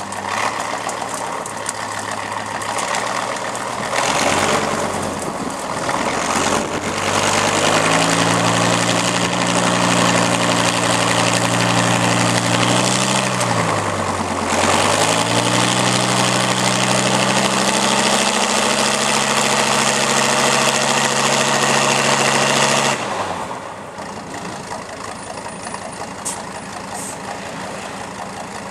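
Heavy trial truck's engine revving hard and held at high revs under load, the pitch sagging briefly about halfway and climbing back, then dropping to a quieter idle near the end.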